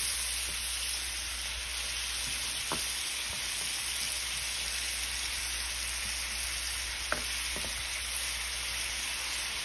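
Shrimp and scallops sizzling in hot oil in a frying pan: a steady hiss, with a few faint clicks as they are stirred with a spatula.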